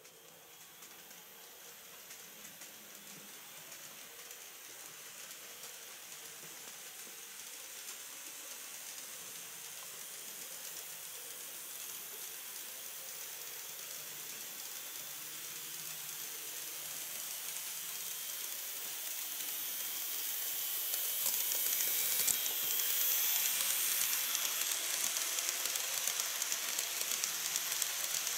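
KATO DD51 model diesel locomotive and its train of model coaches running on model track: a high, hissing whir of motor and wheels. It grows steadily louder as the train comes closer and is loudest a little after three quarters of the way in.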